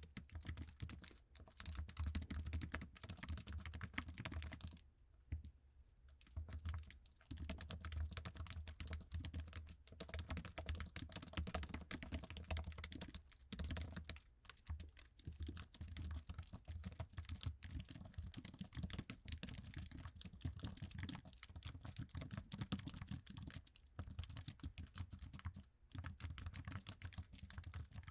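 Typing on an Apple iMac's standard low-profile keyboard: a fast, continuous run of soft keystroke clicks, broken by a few brief pauses.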